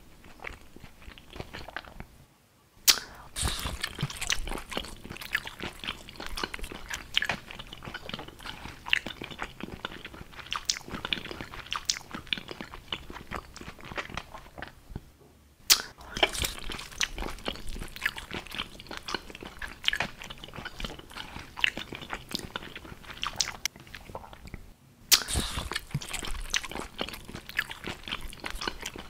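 Close-miked ASMR eating: biting and chewing a sauced hot dog in a bun, full of small clicks and crackles. It comes in three stretches, each opening with a sharp bite, about three, sixteen and twenty-five seconds in, after a brief silence.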